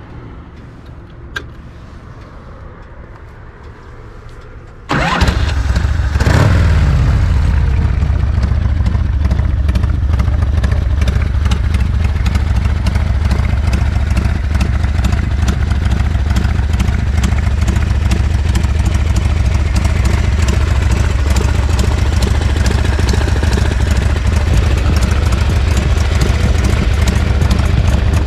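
1986 Harley-Davidson FXRP's Evolution V-twin engine firing up with a sudden catch about five seconds in, revving once briefly, then idling steadily through a Supertrapp exhaust.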